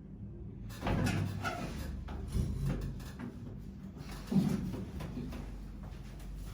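Irregular knocks and rustling from a patient's body being handled and manipulated during a bone-setter's joint-cracking session, starting just under a second in, with a few short louder knocks.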